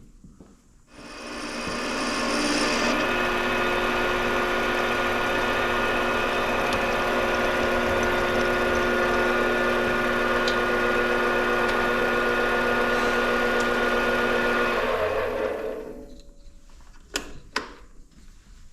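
Lathe spinning up and running steadily with a steady hum of several fixed tones while taking a facing cut on the end of a motorcycle axle spacer. It winds down near the end, followed by a few sharp clicks.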